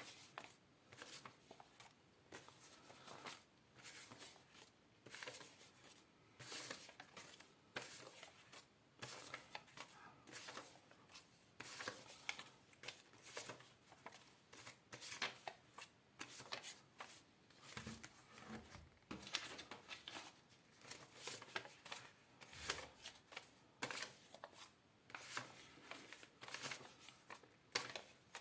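Paper banknotes rustling and crackling as they are handled and flipped through, in short irregular bursts about one or two a second.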